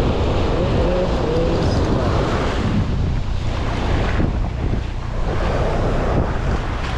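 Ocean surf breaking on the beach, a steady rush, with wind buffeting the microphone.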